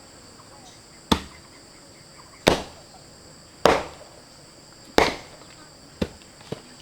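Six sharp chopping blows at uneven spacing, the middle four loudest with a short ring after each, over a steady high drone of insects.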